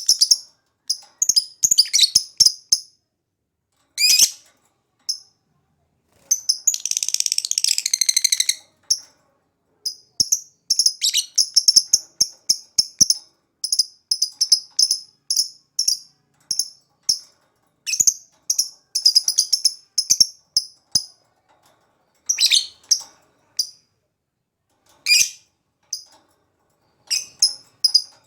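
Lovebird singing: bouts of rapid, sharp, high-pitched chirps and clicks separated by short pauses, with a denser rattling trill lasting about two seconds a few seconds in.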